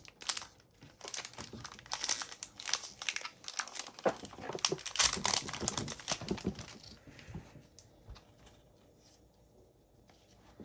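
An Upper Deck hockey card pack's wrapper being torn open and crinkled, with the cards rustling as they are handled. The crackling dies down about seven seconds in.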